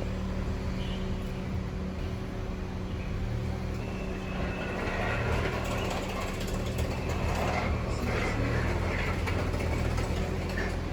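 Vehicle engine running with a steady low hum, with light rattles and clicks over it.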